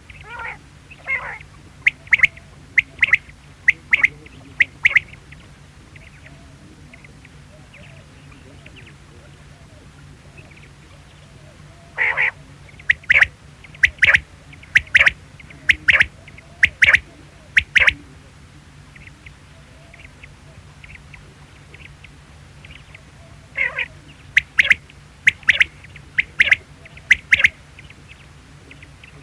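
Quail calling: sharp, high single calls in three runs of five to seven, spaced about a second apart, with pauses between the runs. A faint steady low hum lies underneath.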